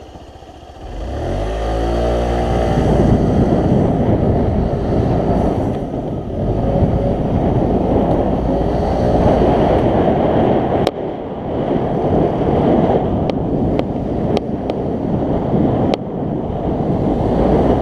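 Scooter engine revving up as it pulls away about a second in, then steady riding noise with wind rushing over the microphone. A few sharp clicks in the second half.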